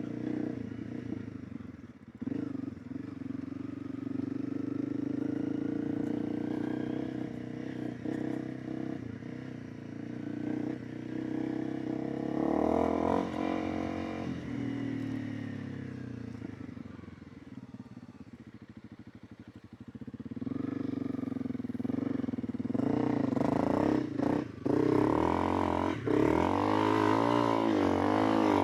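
Honda CRF300 Rally's single-cylinder four-stroke engine running under way, its note rising and falling with the throttle. It eases off about two-thirds of the way through, then builds again.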